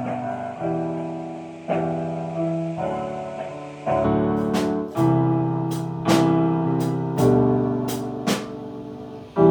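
Worship band instrumental: sustained keyboard chords changing about once a second, with sharp drum hits coming in about halfway through.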